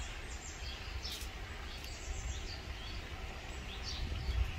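Small birds chirping, a short high call every half second to second, over a steady low rumble.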